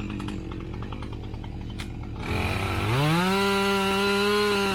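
Two-stroke chainsaw idling, then throttled up a little over two seconds in, its engine note climbing quickly to a high, steady full-speed whine that it holds.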